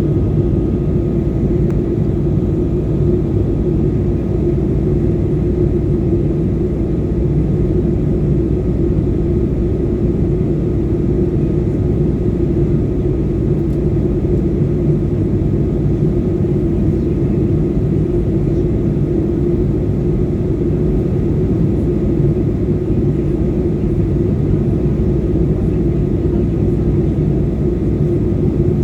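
Steady drone of an airliner in flight heard from inside the passenger cabin: engine and airflow noise, a constant low rumble with a hum running through it.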